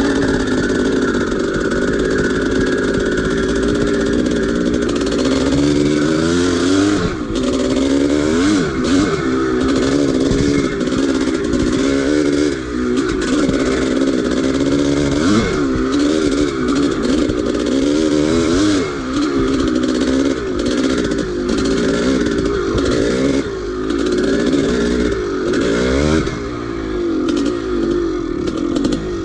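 1983 Maico 490's single-cylinder two-stroke engine running hard on a dirt-bike climb. It holds a fairly steady pitch at first, then from about six seconds in revs up and drops back again and again as the throttle is worked.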